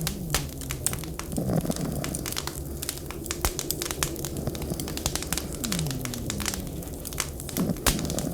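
Wood fire crackling and popping steadily in a stove or fireplace over a low, steady rumble. A few faint, low sliding tones rise and fall underneath.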